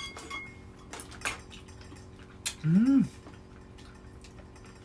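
Dishes and cutlery clinking during a meal, with a short ringing clink at the start and a few sharp taps. About three seconds in, a brief hummed 'mm' rises and falls in pitch, the loudest sound.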